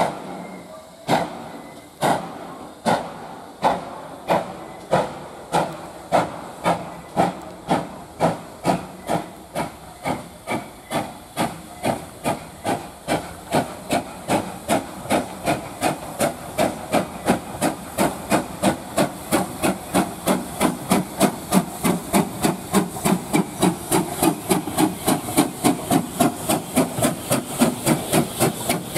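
Steam locomotive pulling away, its exhaust chuffs starting about a second apart and quickening steadily to several a second as the engine gathers speed, with a hiss of steam.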